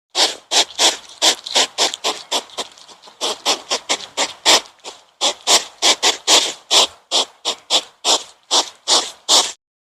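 An animal making a quick series of short, breathy, noisy calls, about three a second, with a brief pause about halfway through.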